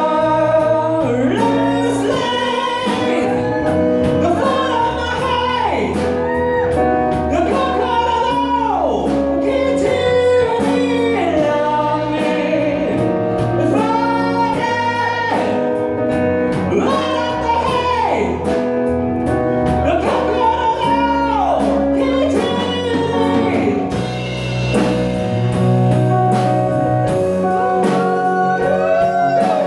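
Live cover of a rock ballad: a singer holding long notes with vibrato over a sustained band accompaniment.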